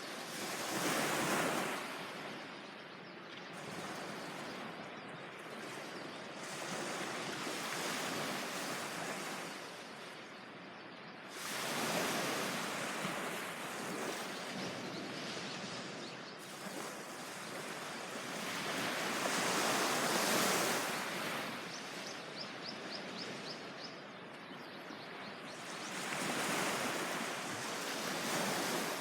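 Ocean surf breaking on a beach, rising and falling in slow surges several seconds apart.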